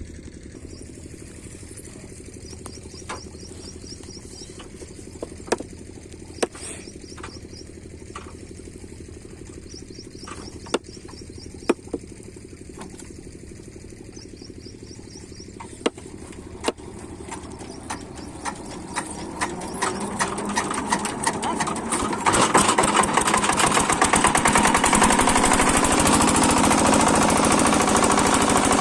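Single-cylinder 8 hp Rajkot diesel engine of a water pump set running slowly with a low, even beat and a few sharp knocks. From about eighteen seconds in it speeds up, its pitch rising, and settles into a loud, fast, hammering run at working speed.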